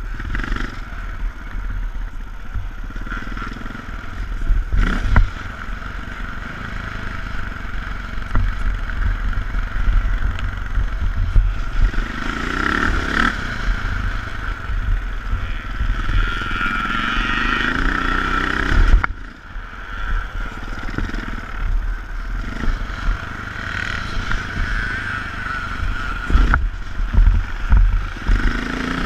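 Twinshock motocross bike's engine running hard under the rider, rising and falling with the throttle; the throttle is shut sharply about two-thirds of the way through, then opened again.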